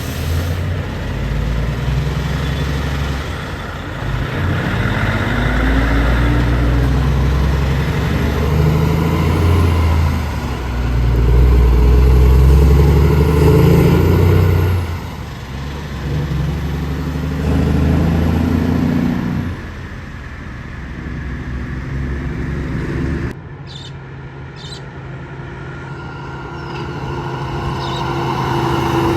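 Heavy trucks' engines running loud as they pass, the engine pitch rising and falling several times. The sound drops off suddenly about three-quarters of the way through, then builds again near the end.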